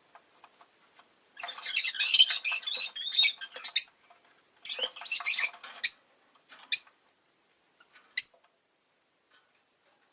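Rosy-faced lovebirds chattering and squawking in two dense bursts of about two seconds each, followed by two short single calls.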